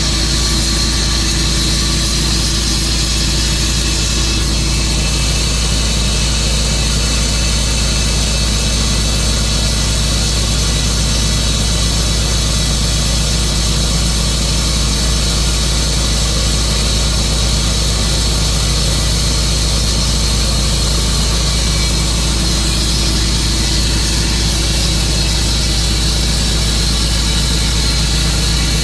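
Tru-Cut sawmill's gasoline engine running at a steady speed.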